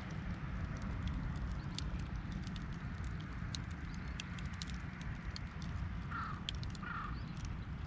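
Campfire crackling with scattered sharp pops over a low wind rumble on the microphone; a crow caws twice near the end.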